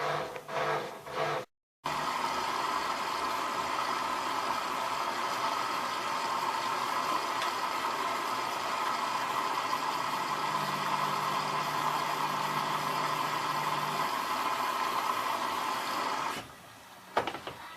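ELIN A 100 E washing machine running: a few rhythmic mechanical strokes, then after a short break a long steady whirring with a low hum through part of it. The whirring stops near the end, followed by a single click.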